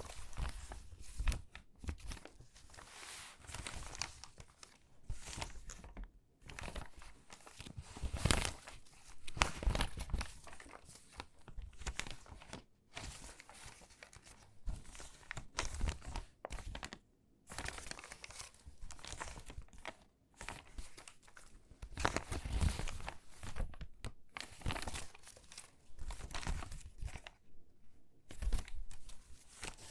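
Stiff, crinkly water-damaged magazine pages being handled and sorted by hand: irregular rustling and crackling as sheets are lifted, shuffled and laid down, with short pauses between handlings.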